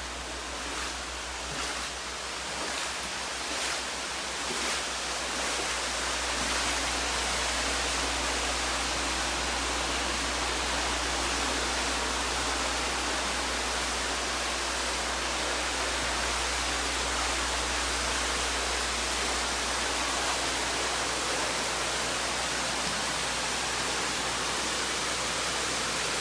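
Steady rushing of water from hoses running clean water through the flooded building, an even hiss with a low rumble beneath it. A few light knocks come in the first few seconds.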